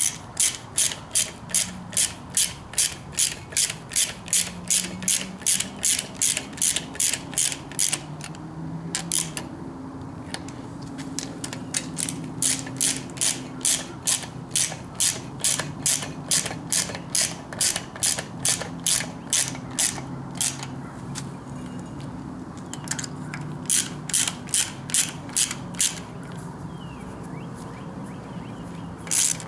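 Ratchet wrench clicking at about three clicks a second in several runs with short pauses, snugging down the nuts that hold a four-barrel carburetor to the intake manifold.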